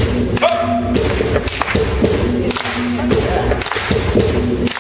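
Live rock band playing an instrumental passage of a song: drum hits at a steady pulse over sustained chords.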